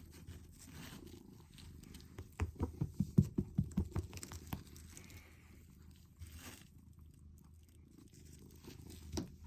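Domestic cat purring with a steady low rumble, with a quick run of loud low thumps from about two and a half to four seconds in.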